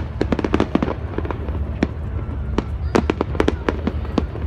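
Fireworks display: a rapid series of sharp bangs and crackling pops, thickest in the first second and again around three seconds in, over a steady low rumble.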